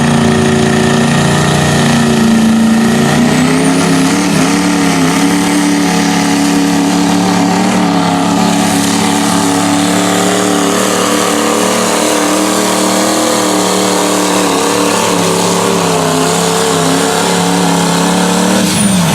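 A modified diesel pickup's engine running flat out through a tractor-pull run while it drags the sled. The pitch drops a step about three seconds in, then holds steady and high, and falls away near the end as the run finishes.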